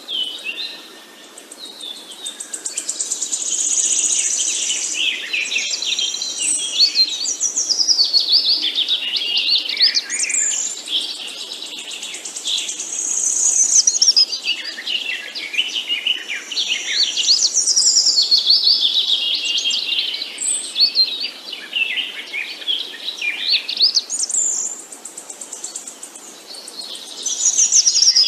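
Several songbirds chirping and trilling in rapid, overlapping high-pitched phrases. The song comes in swells of a few seconds each, about every five seconds, against a faint background hiss.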